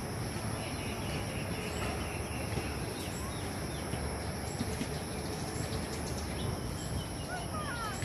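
Wild birds chirping in short, scattered calls over a steady low outdoor background noise, with a quick run of sweeping bird notes near the end.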